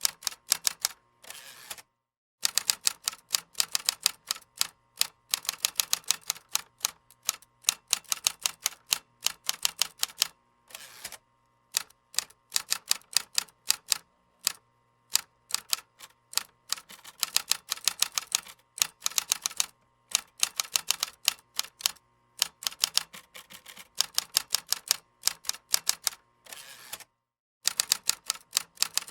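Typing on a computer keyboard: rapid runs of keystroke clicks, broken by short pauses every few seconds.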